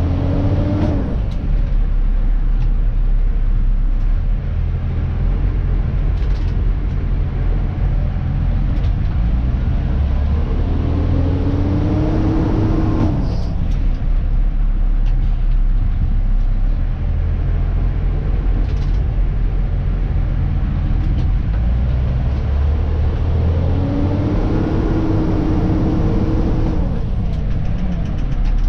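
Dennis Eagle Elite 2 garbage truck's diesel engine running, heard in the cab as a steady low drone. Its pitch rises three times, near the start, about halfway through and near the end, with a faint high whine climbing alongside the last two, as the truck pulls away and accelerates.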